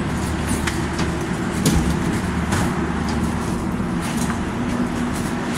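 Steady low engine drone, with a few scattered knocks and clicks over it.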